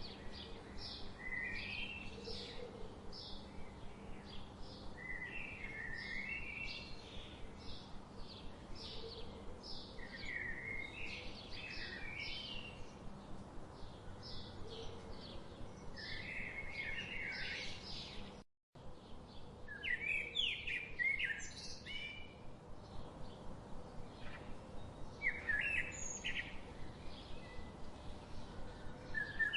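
Several birds chirping and singing: a steady stream of quick, high repeated chirps with short warbling phrases mixed in. The sound cuts out completely for a split second about two-thirds of the way through.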